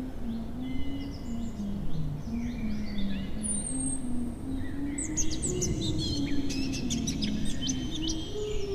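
Small birds chirping and tweeting in quick, overlapping calls, busiest in the second half, over a slow single-line melody in a low register moving step by step in held notes.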